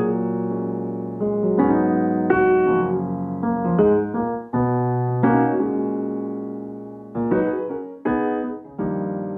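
Background piano music: chords and notes struck one after another and left to ring and fade.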